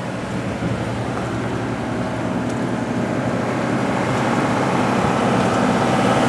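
TDME-490 marine diesel engine running steadily as the motorboat moves, its low drone slowly getting louder.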